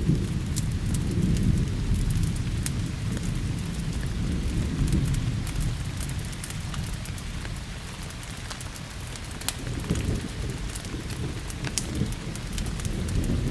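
Steady rain with a low rolling rumble of thunder, strongest at the start and swelling again near the end, over the scattered sharp pops of a crackling fire.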